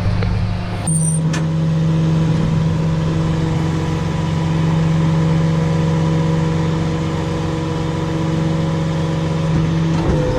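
Diesel engine of a Freightliner rollback tow truck running steadily, its note shifting about a second in along with a brief hiss.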